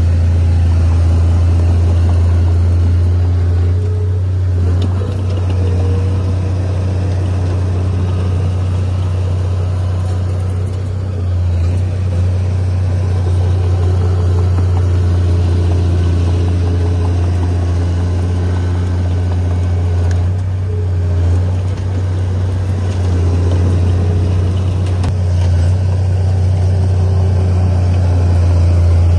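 Heavy earthmoving machine's diesel engine running steadily with a deep constant hum, easing off briefly a few times, about 4, 11 and 20 seconds in.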